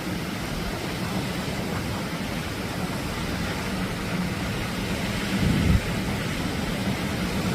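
Atlantic surf: a steady rush of breaking waves, with a short swell of louder surging about five and a half seconds in.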